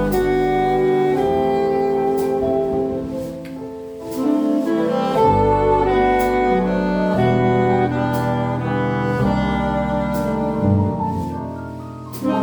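Live jazz octet of alto, tenor and baritone saxophones, trumpet, trombone, piano, double bass and drums playing, the horns holding sustained chords over bass and piano. The music eases off briefly about four seconds in and again near the end before coming back in.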